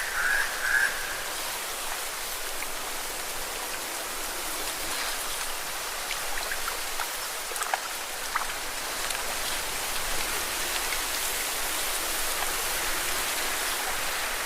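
Small lake waves lapping and splashing against rocks: a steady wash of water with a few sharper splashes and drips near the middle. A short pulsed call, heard just before, stops about a second in.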